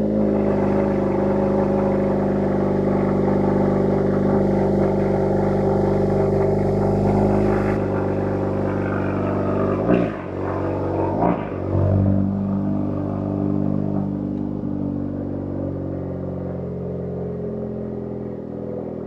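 Honda car engine running at a cold-start fast idle, heard close up at the exhaust from a mic on the rear license plate. A few brief throttle blips come about ten to twelve seconds in, then the idle settles and grows slightly quieter.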